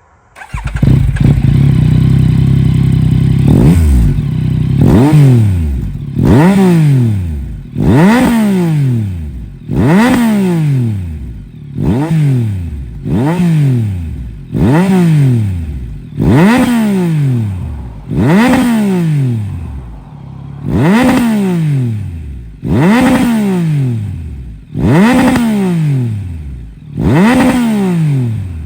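Yamaha Tracer 9 GT+ three-cylinder engine through a full Akrapovic race exhaust with the baffle removed. It comes in loud about half a second in, holds a steady note for a few seconds, then is revved over and over, each blip rising sharply and dropping back slowly, about every one and a half to two seconds.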